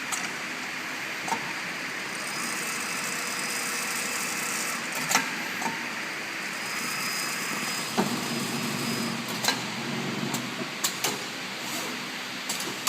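Automatic placket and pocket sewing machine running: steady mechanical whirr with sharp clicks and knocks at irregular intervals.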